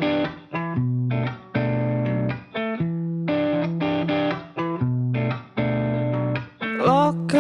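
Music: a guitar intro, a series of chords each plucked and left ringing for about a second. A voice begins singing near the end.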